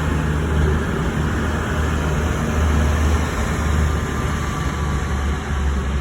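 Diesel train running with a steady low rumble.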